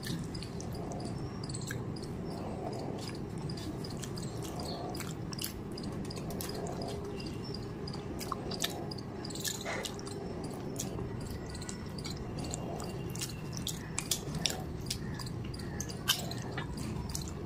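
Close-miked chewing and wet mouth sounds of a person eating rice and curry, with many scattered soft clicks and smacks and a few sharper ones near the end as another handful goes into the mouth.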